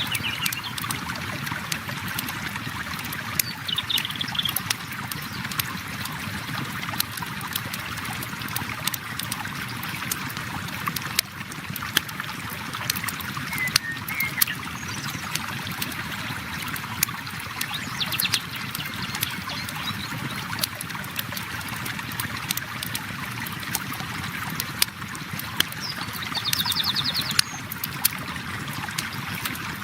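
River water flowing steadily while a campfire crackles with frequent sharp pops. A few brief bird chirps sound over it, with a short trill near the end.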